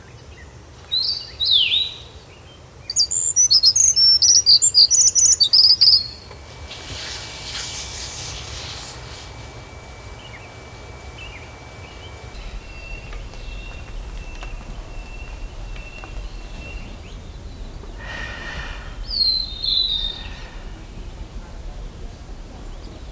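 Wild birds calling: a few downward-sweeping calls, then a loud, rapid run of high chirps for about three seconds. Later comes a thin, steady high note and a softly repeated call, with another sweeping call near the end.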